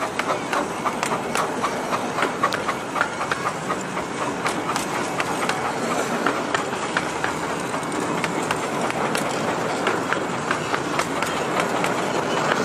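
Coaches of a 15-inch-gauge miniature railway train rolling past close by: a steady rumble of wheels on rail with quick, irregular clicks as the wheels cross rail joints and pointwork.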